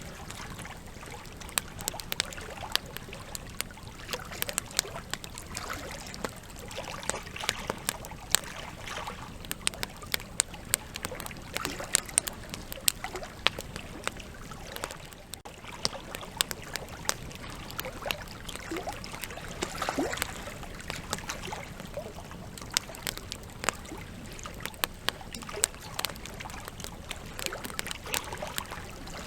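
Wood campfire burning, with the logs crackling and popping in many sharp, irregular snaps over a steady low rush of flame.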